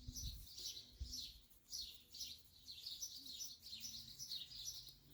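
Small birds chirping in the yard, a quick, steady run of short high chirps repeating several times a second, with a faint low rumble beneath.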